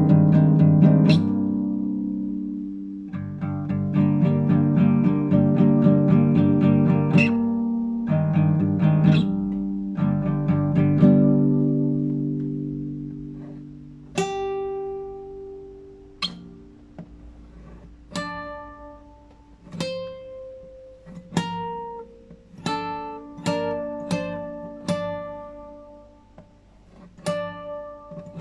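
Classical guitar improvising: fast, rapidly repeated chords over ringing bass notes for about the first twelve seconds, fading out. Then slower, separate plucked notes, each ringing and dying away.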